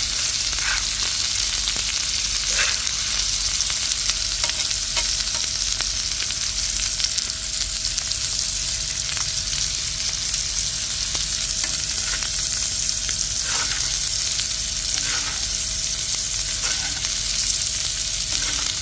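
Steak searing in a hot frying pan: a steady sizzle with a few brief louder spits.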